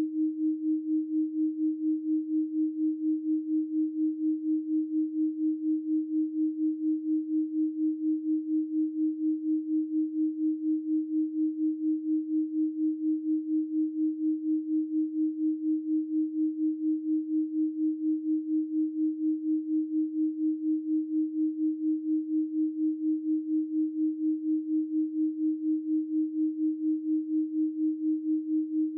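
Continuous 312 Hz pure sine tone, one steady low-mid pitch with no overtones, its loudness pulsing evenly and rapidly throughout.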